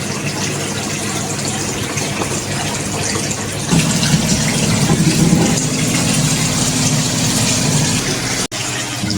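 Car engine running with a steady hum and rushing noise, growing louder about four seconds in. It cuts out for an instant near the end.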